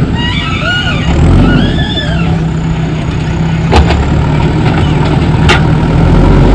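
Diesel engine of a JCB 3DX backhoe loader running steadily at working speed. Two sharp knocks come in the second half.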